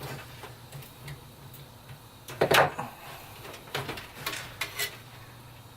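Scattered clicks and knocks from handling a PC case fan and its wire against the case. The loudest knock comes about two and a half seconds in, with a quick run of lighter clicks a little over a second later.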